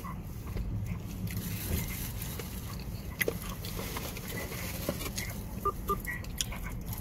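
Close-miked eating: chewing and biting into a fast-food burger, with many short wet mouth clicks, over a low steady hum.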